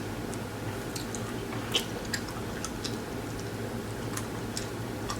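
Close-miked chewing: scattered soft, wet mouth clicks and smacks, with a steady low hum underneath.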